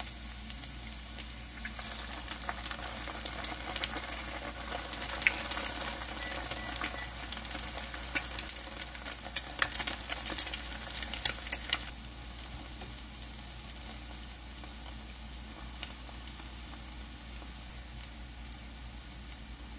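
A shredded-cabbage pancake with an egg cracked into its centre sizzling and crackling in a nonstick frying pan. The popping is busy and loud for the first half, then settles to a steadier, quieter sizzle.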